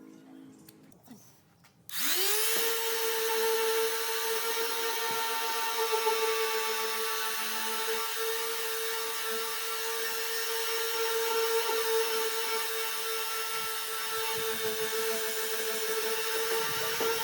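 An electric power tool's motor starts about two seconds in, spinning up quickly to a steady high whine, and runs evenly without load changes.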